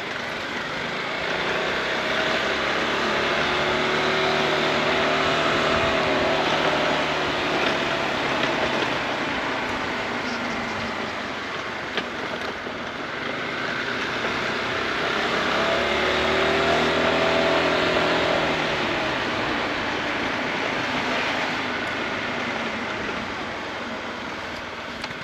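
Riding noise on a Honda ADV 350 scooter: a steady rush of wind and road noise, with engine notes that rise, swell and fade away twice.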